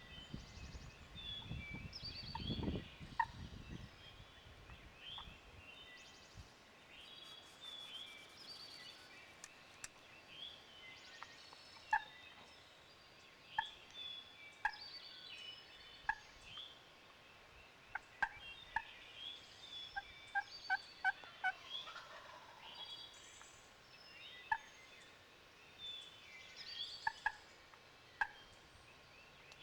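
Several wild turkey gobblers gobbling repeatedly, faint and from different directions, over high chirping birds. Gusts of wind buffet the microphone in the first few seconds.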